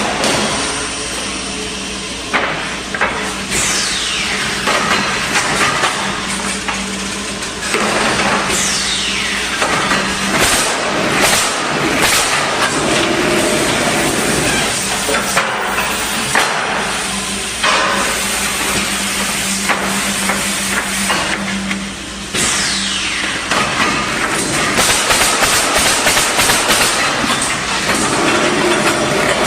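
Woodpecker Junior pallet nailing machine running, its nail guns firing in quick strings of sharp shots. Bursts of air hiss and a steady machine hum sit underneath.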